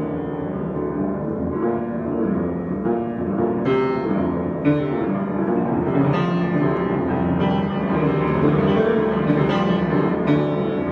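Solo piano improvisation: sustained, ringing chords with new notes struck about once a second in the second half.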